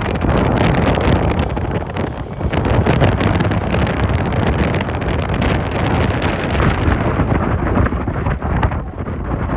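Strong gusting wind buffeting the microphone: a loud, rough, fluttering rumble that swells and dips with the gusts and drowns out other sounds.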